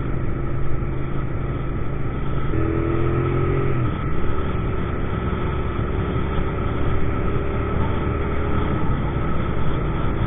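2000 Suzuki SV650's 90-degree V-twin engine running under way as the motorcycle is ridden. The engine note steps in pitch a few times, with a falling note about four seconds in.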